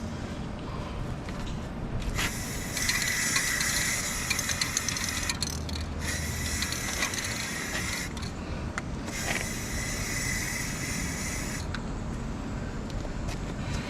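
Aerosol spray paint can fired through a clip-on trigger handle: three hissing bursts of about two to three seconds each, with short clicks between them.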